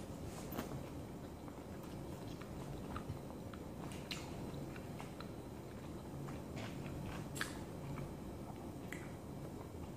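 A person chewing and biting food, with scattered short sharp clicks and smacks, a loud one about seven and a half seconds in, over a steady low room hum.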